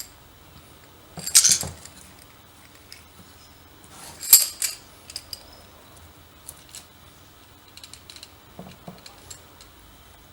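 Small hard parts clinking and clattering as they are handled, with two louder rattles about one and a half and four seconds in, then a few light ticks.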